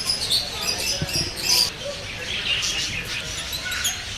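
Birds chirping, many short high calls overlapping one another.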